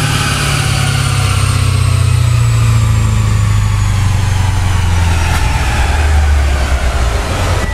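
Twin-turbocharged V8 of a 2011 Chevrolet Camaro running on a chassis dyno, its engine speed winding down after a pull. A thin high whistle falls steadily in pitch over the engine sound.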